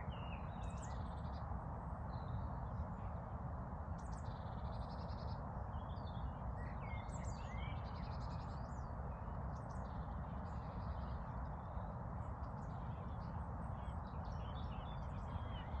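Songbirds chirping and singing in short, scattered phrases and trills, over a steady low background rumble.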